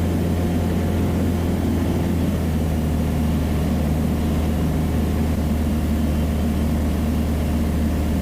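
Piper Cherokee's single piston engine and propeller droning steadily in flight, one unchanging low pitch.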